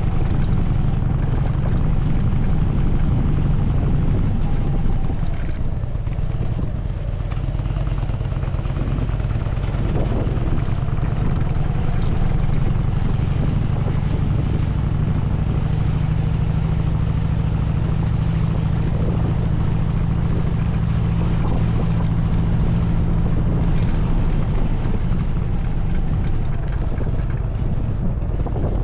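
Harley-Davidson Dyna Super Glide's air-cooled V-twin engine running steadily under way, a low rumble that eases slightly about seven seconds in.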